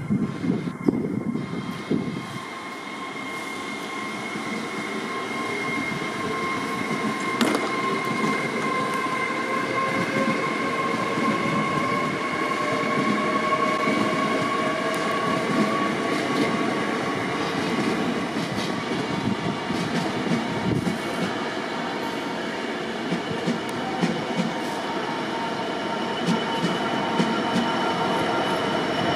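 A train moving through the station: continuous rail rumble with several steady high whining tones, one of them drifting slowly in pitch.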